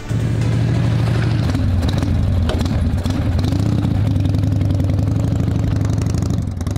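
Harley-Davidson V-twin motorcycle engine running. The revs rise and fall a little over the first few seconds, then hold steady, with a short dip near the end.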